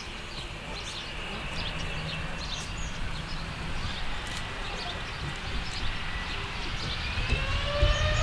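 Jet aircraft engines rumbling and building in loudness, with a whine that sets in about seven seconds in and climbs in pitch. Small birds chirp over it.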